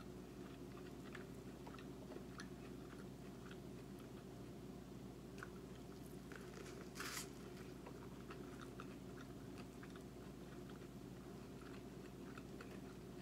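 A person biting kernels off corn on the cob and chewing them, heard as scattered small crisp clicks with one louder crunch about seven seconds in. A steady low hum runs underneath.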